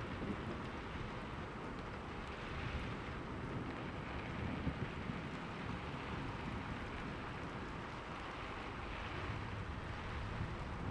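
Steady rain, with a low rumble of thunder that swells and fades a few times.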